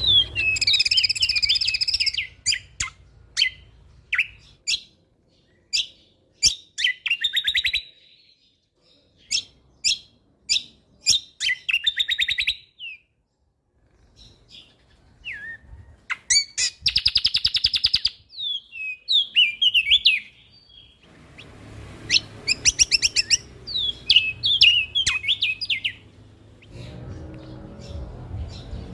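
A songbird singing in bursts of rapid trills and sharp, high chirps, with short pauses between phrases. A faint low hum runs underneath in the later part.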